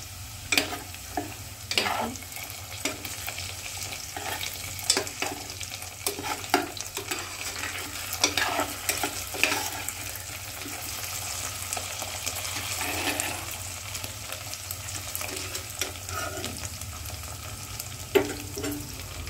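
Sliced potatoes, onions and green chillies sizzling in hot mustard oil in a kadhai, stirred with irregular knocks and scrapes of the utensil against the pan.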